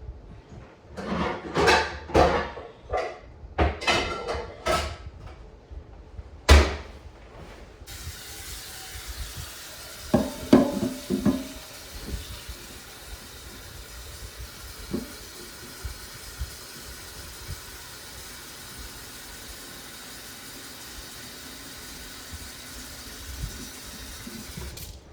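Pots and dishes clinking and knocking, then a kitchen tap running steadily into a pot for about seventeen seconds, filling it with water to boil the macaroni, with a few clanks of the pot under the stream before the tap shuts off near the end.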